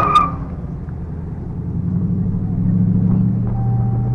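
Car engine running with a low, steady drone that grows louder from about two seconds in. A tire squeal cuts off right at the start.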